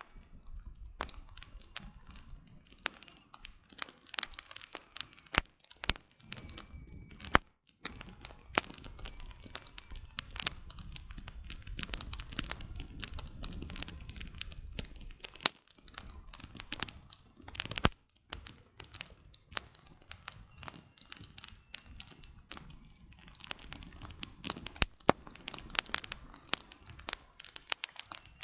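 Wood campfire burning at night, firewood crackling and popping constantly and irregularly over a soft low rush of flame.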